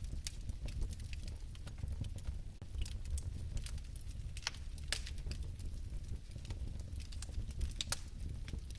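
Fire crackling in a fireplace: irregular sharp pops and ticks over a low, steady rumble of flame.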